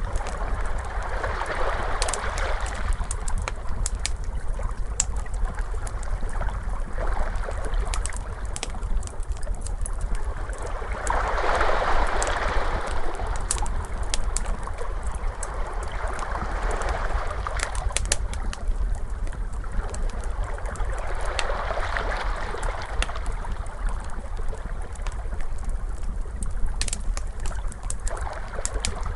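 Ocean waves washing in and out in slow surges, the biggest about twelve seconds in, over a steady low rumble. A wood fire crackles with scattered sharp pops on top.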